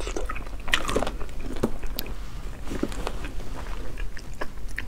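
Close-up mouth sounds of a person biting into and chewing the soft white flesh of an unopened akebia fruit, with many small, irregular mouth clicks.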